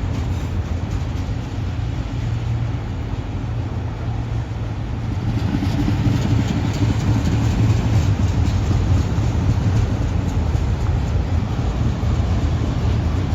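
Train locomotive engines running: a steady low rumble that grows louder about five seconds in.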